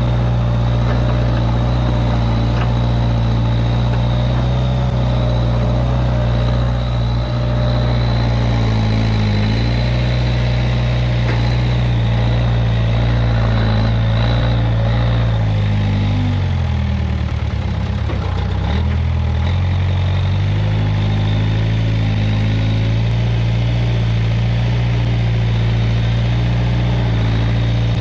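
Case 580G backhoe loader's diesel engine running steadily. A little past the middle its pitch sags for a few seconds, then comes back up.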